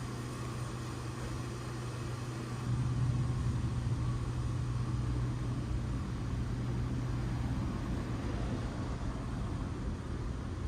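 Steady low hum of a train, with a constant drone under a wash of noise, getting slightly louder about three seconds in.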